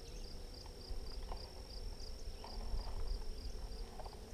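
Honeybees humming at an open hive. Over the hum, a high, even chirping repeats about three times a second, with a low rumble and a few faint clicks.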